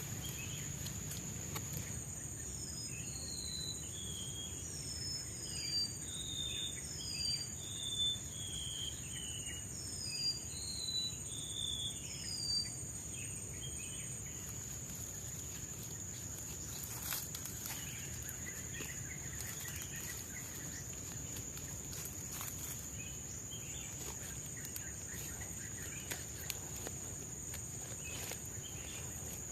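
Tropical forest ambience: a steady high-pitched insect drone throughout, with a bird singing a string of short, downward-sliding whistled notes during the first half.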